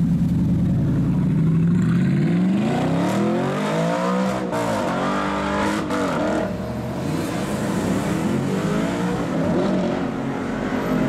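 Supercar engine revving: its pitch climbs for about two seconds and drops back, with two sharp cracks near the top, then climbs and falls once more.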